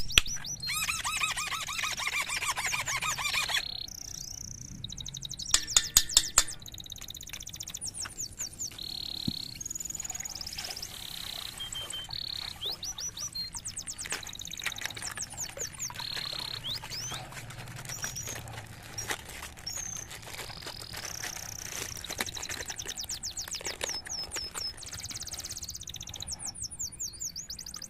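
Birds chirping and calling: many short high calls and quick falling chirps, with a fast pulsing trill in the first few seconds.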